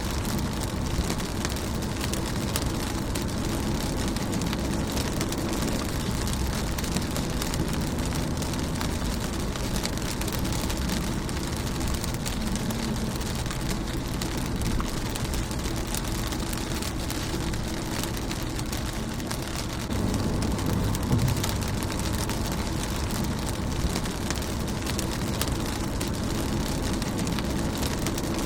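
Rain falling on a car's windshield: a dense, steady patter of drops over a low rumble. The rain swells slightly about twenty seconds in.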